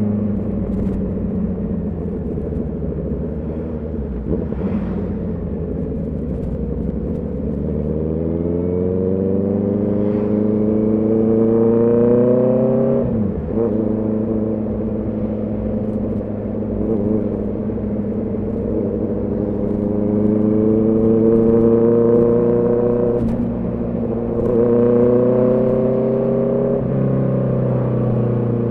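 Honda CB650R's inline-four engine and exhaust under way: steady running, then pulling up through the revs from about eight seconds in and dropping sharply in pitch near the middle, followed by two more shorter pulls later that each end in a sudden drop.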